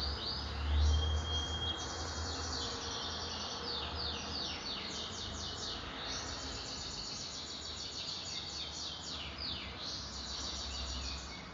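Small birds chirping in quick, repeated runs of falling notes, over a low rumble that swells briefly about a second in.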